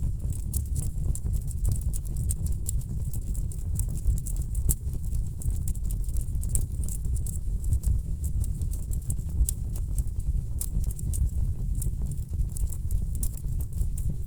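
Wood fire burning in a fireplace: a steady low rumble of flames with many sharp crackles and pops from the burning logs, several a second.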